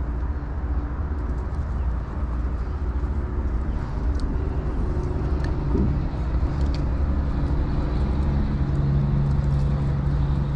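A motor engine running steadily with a low rumble and hum, the hum growing stronger about eight seconds in.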